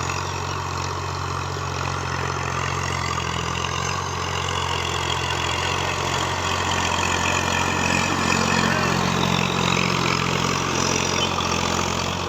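745 DI tractor's diesel engine idling steadily, a little louder for a few seconds past the middle.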